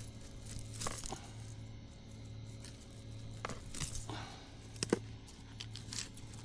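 Woody weed stems and twigs snapping and crunching as overgrown plants are pulled and handled, in scattered sharp cracks with the loudest about five seconds in, over a steady low hum.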